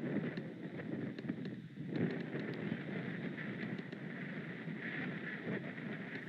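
High wind gusting and buffeting the microphone during a passing storm front, with scattered small ticks of rain.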